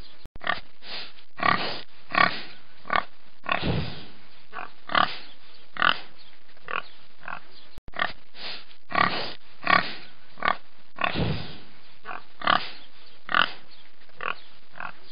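An animal giving short, pitched calls over and over, about one or two a second at uneven spacing, with two very brief dropouts in the sound.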